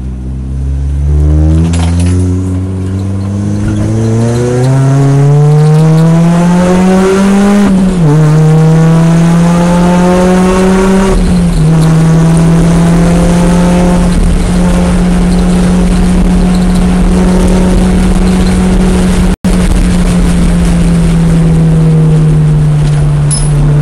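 Car engine heard from inside the cabin, accelerating hard with rising revs, pitch dropping at upshifts about 8 and 11 seconds in, then holding steady at highway speed. The sound cuts out for an instant about 19 seconds in.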